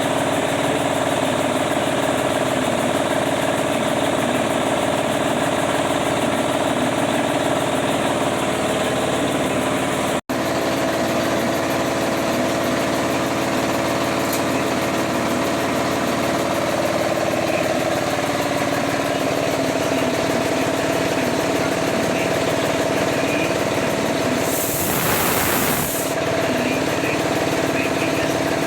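An engine running steadily at idle, with a short burst of hiss about 25 seconds in.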